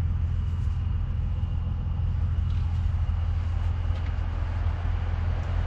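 Steady low rumble with no speech, with a few faint ticks.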